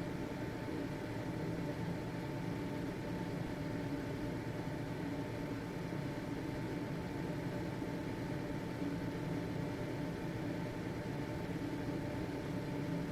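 Household ventilation fan running steadily: an even whirring hiss with a faint constant motor hum.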